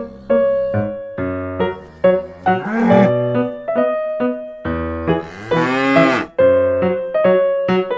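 A cow mooing twice, two long bending calls about a third of the way in and again past the middle, over a keyboard melody of short plucked-sounding notes.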